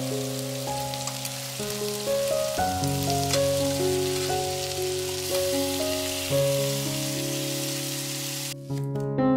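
Chicken pieces sizzling as they fry in oil in a nonstick pan while being turned with a metal spoon. Background music plays underneath, and the sizzle cuts off abruptly near the end.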